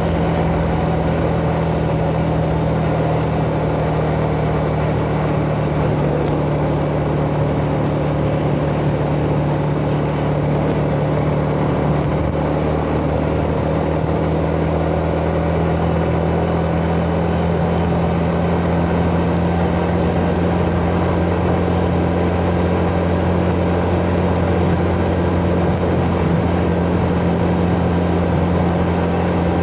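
Yamaha Jupiter Z underbone motorcycle's 110 cc single-cylinder four-stroke engine running steadily under way, its pitch nearly constant with only slight wavering.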